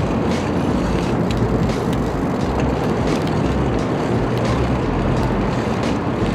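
Wind rushing and buffeting over an action camera's microphone while riding a bicycle, with scattered light ticks from the moving bike.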